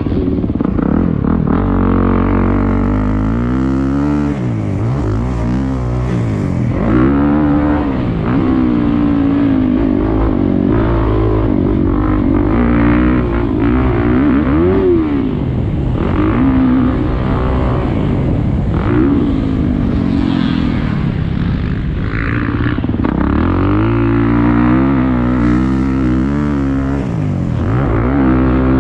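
Motocross bike engine running hard, its revs climbing and dropping over and over as the throttle is opened and closed through the gears.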